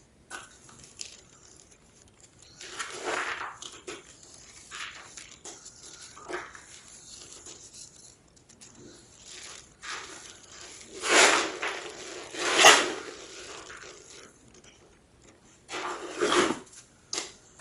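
Large slabs of gym chalk being crunched and crumbled in a series of separate crunches, the loudest two close together just past the middle and another cluster near the end.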